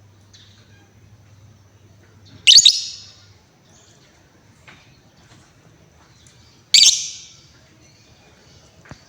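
Female lovebird giving two loud, shrill calls about four seconds apart, each lasting about half a second and trailing off.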